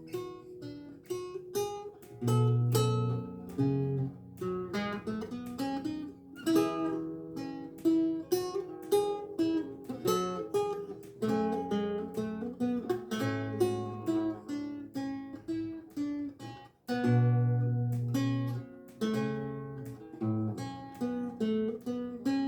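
Renaissance lute with gut strings played solo: a steady flow of plucked notes and chords over held bass notes, with a brief break about three-quarters of the way through.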